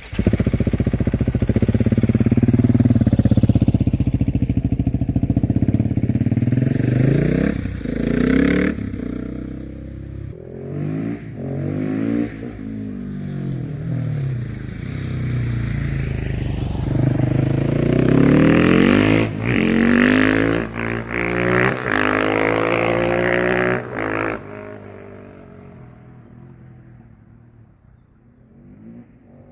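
KTM 690 SMC R's single-cylinder engine running through a LeoVince exhaust: a steady loud note at first, then revs rising and falling again and again, before the sound fades away near the end.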